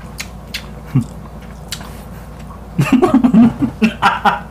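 Close-up chewing of breaded fried chicken fillet, with small sharp mouth clicks. About three seconds in, a woman breaks into laughter.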